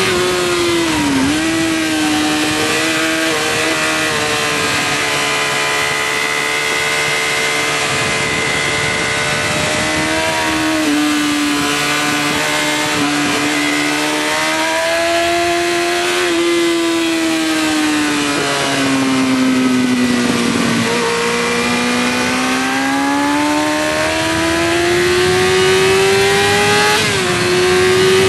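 Yamaha R6 supersport's inline-four engine at high revs, heard from on board during a flying lap on a racing circuit. Its pitch sags and climbs with throttle and gear changes through the corners, falling to its lowest about two-thirds through, then rising again, with a quick upshift step near the end.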